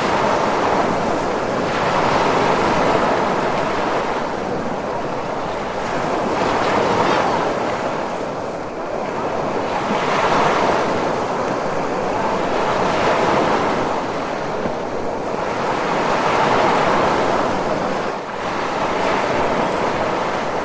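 Ocean surf: a continuous rush of waves washing in, swelling and easing every few seconds.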